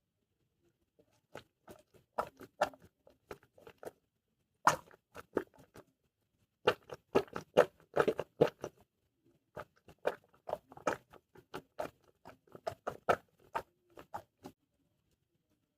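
Squishy toys being handled: irregular soft crackles and clicks in quick clusters, with a short pause about six seconds in, stopping shortly before the end.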